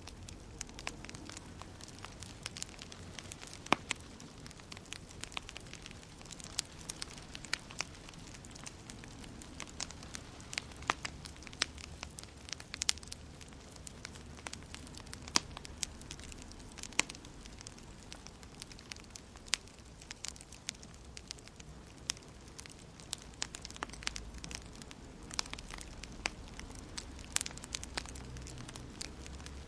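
Fire burning in a fireplace, crackling with irregular sharp pops over a soft steady hiss and low rumble.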